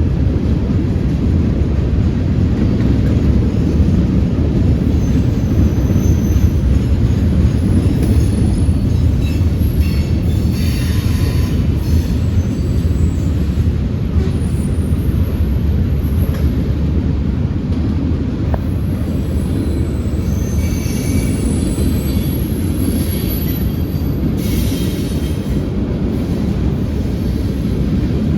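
Freight train rolling past close by: a steady heavy rumble of wheels and cars on the rails, with high-pitched wheel squeals coming and going several times.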